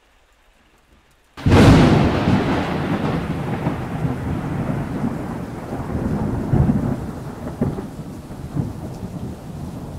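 Faint rain, then a sudden loud thunderclap about a second and a half in that rumbles on unevenly and slowly fades.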